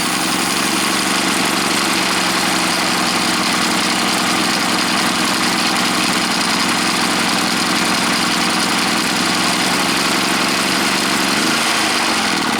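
Predator 3500 inverter generator's single-cylinder engine running steadily just after an electric start. It now starts and runs because the faulty ignition control module has been replaced. Its pitch shifts near the end as the engine speed changes.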